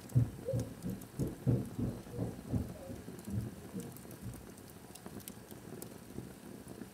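A run of low, muffled thumps, about three a second, over the first four seconds, then faint sharp crackles from a wood fire burning in a fireplace.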